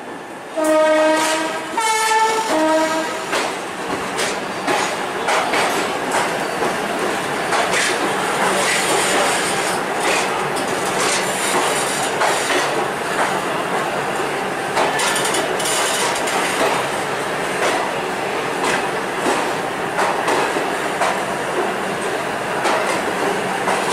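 A train horn gives three short blasts near the start, the middle one higher. Then Indian Railways passenger coaches roll past close by, their wheels clattering steadily over rail joints and points.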